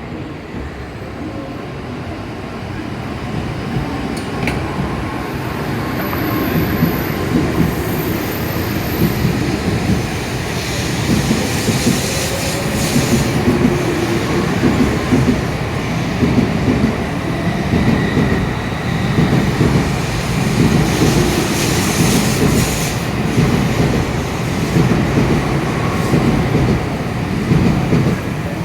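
Tokaido Shinkansen N700-series Nozomi train pulling out of the platform and gathering speed. Its running rumble grows steadily louder, with a regular beat of wheels over the rail joints as the cars pass.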